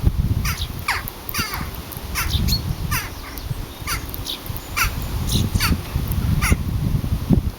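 Birds calling: a string of short, harsh, downward-sliding calls, about two a second and overlapping, over a low rumble.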